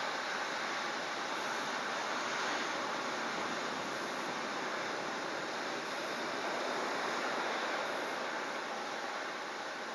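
Steady rushing noise of typhoon wind and surf, even throughout with no distinct events.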